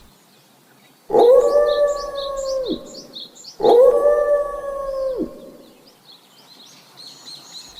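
Wolf howling twice, each a long call held on one steady pitch that drops away at the end, about a second in and again a little after three and a half seconds. Birds chirp faintly alongside.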